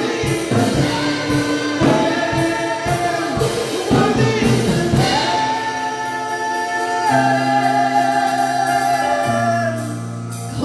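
Gospel worship music: a choir of voices singing with a band, drum hits in the first half giving way to long held chords in the second half.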